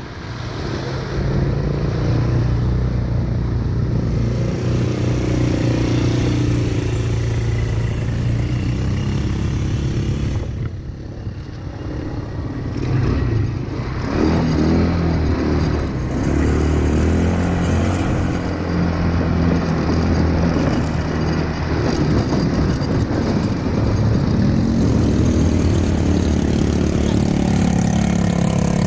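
ATV engine running while being ridden, its pitch rising and falling with the throttle. There is a brief lull about ten seconds in.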